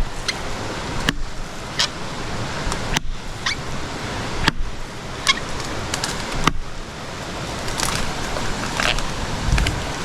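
A creek running with a steady rushing noise, with scattered sharp snaps and clicks of wood and twigs being stepped on or handled. The noise drops out briefly several times.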